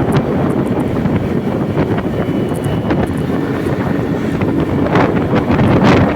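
A vehicle on the move on a wet road in the rain, with heavy wind buffeting the microphone over the steady engine and road noise; the rush swells and eases a few times, loudest near the end.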